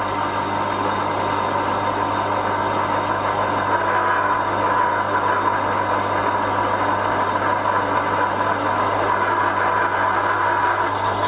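An electric motor-driven machine running steadily at constant speed, with a steady hum and a high whine.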